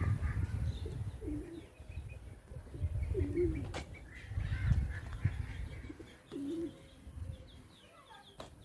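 Domestic pigeons cooing, several short bending coos a second or two apart, with smaller birds chirping faintly higher up and a low rumble underneath.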